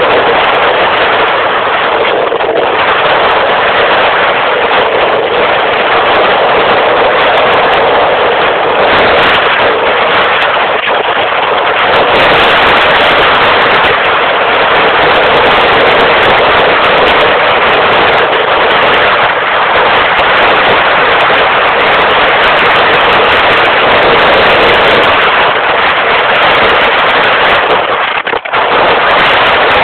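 Motorcycle riding at high speed: engine and rushing wind blend into a constant harsh, crackling noise on the microphone, with a brief drop in level just before the end.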